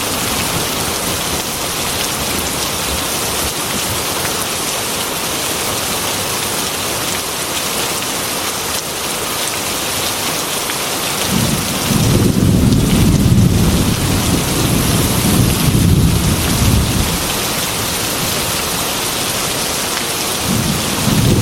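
Steady heavy rain beating on a glass window, with low thunder rumbling in about halfway through for several seconds and again near the end.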